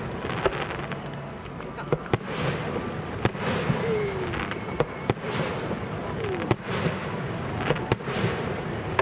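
Aerial firework shells bursting in a rapid series of sharp bangs, about one or two a second, over a continuous rumble from the display.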